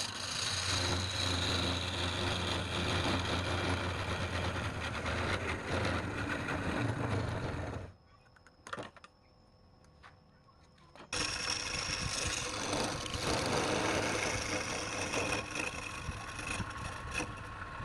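A power tool's motor running with a rough cutting or grinding noise. It stops about eight seconds in and starts again about three seconds later.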